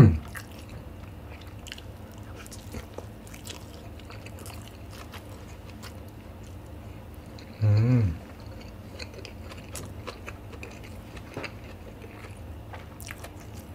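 Close-miked chewing of a mouthful of kimbap (seaweed-wrapped rice roll): soft wet clicks and small crunches from the mouth. About eight seconds in comes one short hummed vocal sound.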